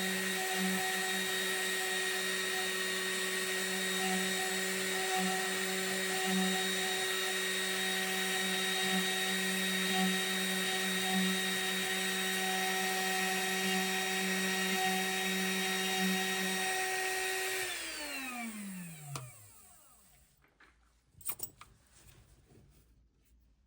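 CNC mill spindle running at a steady high speed with a constant whine. About 18 seconds in it spins down, its pitch falling smoothly until it stops, followed by a few faint clicks.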